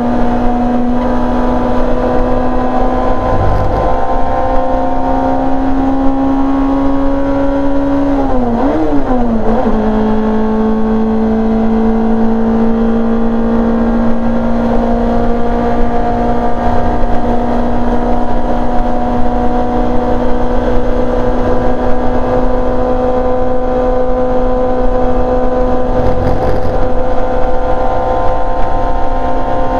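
A rear-engined Simca race car's four-cylinder engine heard from inside the cabin, held at high revs under load with its pitch slowly climbing. About a third of the way in it changes up a gear: the pitch dips sharply, then settles a little lower and climbs steadily again.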